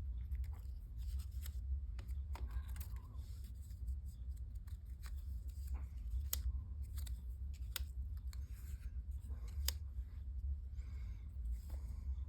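Cardstock pieces being handled and laid into place, with scattered small clicks, taps and soft paper rustles over a steady low hum.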